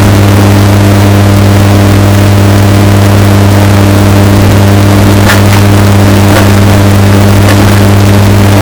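Washing machine running, bass-boosted and overdriven into heavy distortion: a loud, steady motor hum over a haze of noise, with a few faint knocks in the second half.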